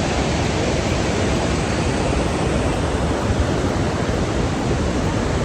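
Gullfoss waterfall: a loud, steady rush of falling water.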